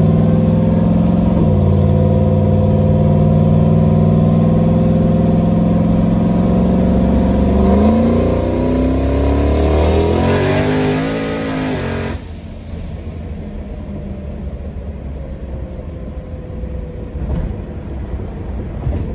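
Turbocharged LS V8 of a Fox-body Mustang, heard from inside the cabin: steady cruising, then from about eight seconds in the revs climb for about four seconds and drop away suddenly, leaving quieter road noise.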